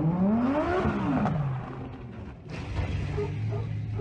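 Car engine revving up and then falling back, then a sudden rush of noise about two and a half seconds in, over a steady low hum.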